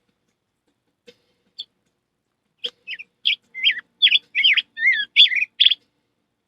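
A person imitating birdsong with the mouth: a quick run of varied whistled chirps and slurred notes, starting about two and a half seconds in and stopping shortly before the end.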